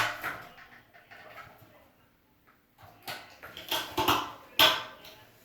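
Sharp plastic clicks and creaks from a toilet fill valve being worked by hand: a loud one at the start, then a run of clicks and a snap in the last couple of seconds as a part is pushed back into place.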